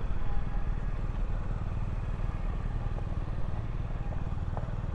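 Motorcycle engine running steadily at low revs, its rapid low firing pulses even throughout, as the bike moves slowly.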